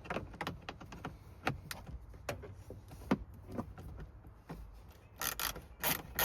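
Scattered clicks and knocks of a socket being fitted onto a 10 mm bolt under the speaker trim, then a ratchet wrench clicking in quick strokes near the end as the bolt is undone.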